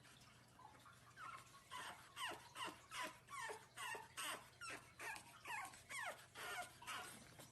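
Kitten mewing over and over in short, high-pitched cries that fall in pitch, about two or three a second. The cries start about a second in and are faint.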